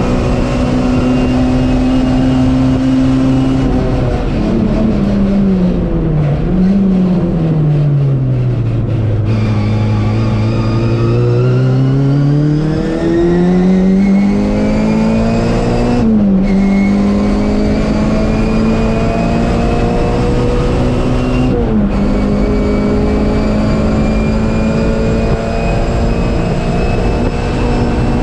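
MG Metro race car's four-cylinder A-series engine heard from inside the cabin. The revs are held high, then fall under braking with a short blip about six seconds in and stay low through a slow corner. They then climb again through two upshifts, about sixteen and twenty-two seconds in, and hold high.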